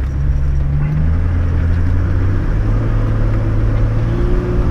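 Four-wheel drive's engine running at low revs while crawling through a muddy, rutted track. Its pitch shifts in the first second or so, then settles into a steady low drone.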